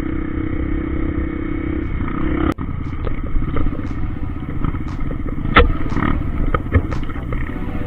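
Trail motorcycle engine running steadily while riding, with scattered knocks and clatter over rough ground.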